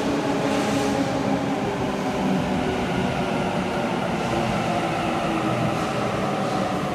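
Sydney Trains B-set electric suburban train running in an underground station: a steady mix of motor tones over rail rumble.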